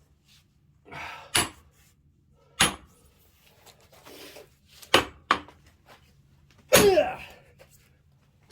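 Splitting axe striking a large log of firewood, several sharp blows spaced a second or more apart, the log not yet splitting. Near the end a man's loud shouted yell comes with a swing.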